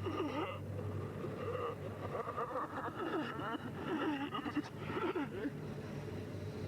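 Distorted, warbling voice-like sounds that waver up and down in pitch over a steady low hum, as in analog-horror video audio.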